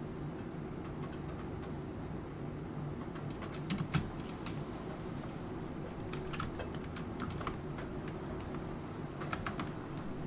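Computer keyboard typing in short runs of key clicks, with a heavier keystroke about four seconds in, over a steady background of rain.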